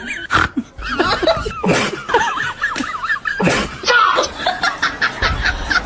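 A baby laughing in high squeals, broken by three sharp breathy bursts.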